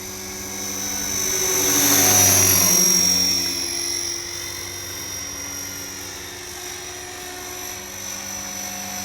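Electric RC helicopter (Align T-REX 470LP) in flight: a high, steady motor and gear whine over the rotor blades' hum. It swells loudest about two seconds in as the heli passes close, then eases to a steady level.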